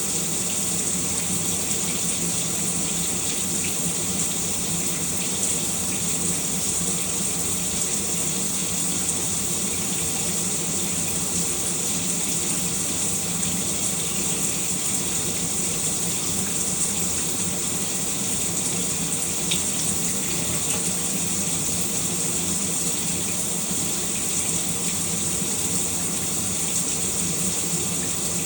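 Shower running steadily, water spraying and splashing with an even hiss.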